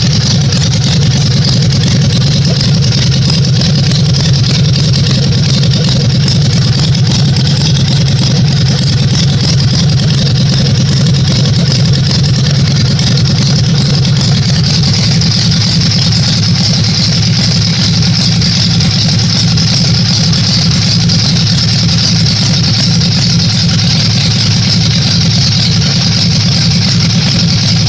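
Custom two-cylinder V-twin Honda GL motorcycle engine running steadily at a fast idle while warming up, with no revving.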